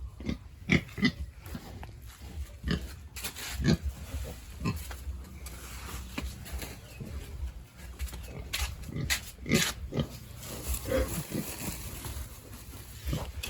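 Pigs in a pen grunting: many short, separate grunts and squeals scattered throughout, over a steady low hum.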